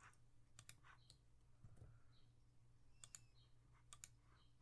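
Faint, sparse clicking at a computer, several clicks coming in quick pairs, over a steady low hum.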